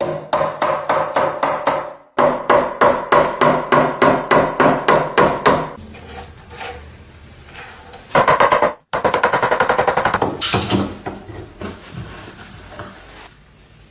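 A hammer striking wood in quick, even taps, about five a second, with a short pause near the start. Near the middle a brief louder burst follows, then faster clicking that fades out.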